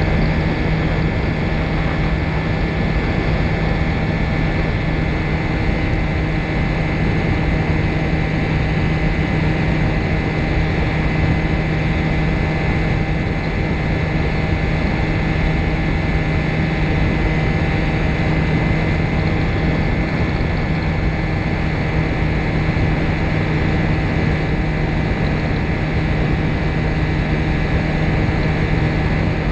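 Microlight trike's engine and propeller running steadily at a constant pitch, a loud drone with a dense rush of air noise.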